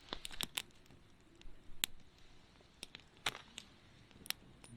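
Wood campfire crackling: irregular sharp pops and snaps, about ten of them, over a faint hiss.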